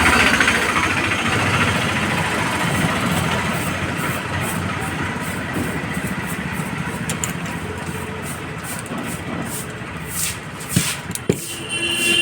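Steady background engine and traffic noise, with a few sharp clicks and taps near the end.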